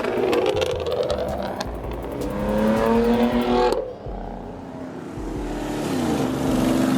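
Car engine revving, its pitch climbing twice. The first rev cuts off suddenly about halfway through.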